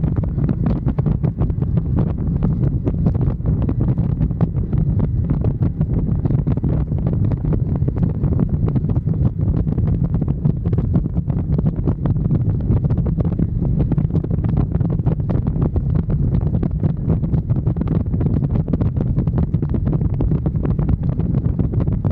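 Steady, loud low rumble of wind buffeting the microphone on a moving motorcycle, with the ride's road and engine noise blended in.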